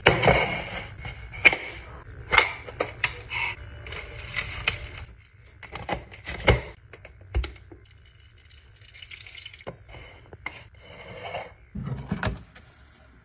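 Items and containers being set down and slotted into a fridge while it is restocked: a run of knocks, clicks and light clatter, busiest in the first few seconds, sparser after, with a short flurry near the end.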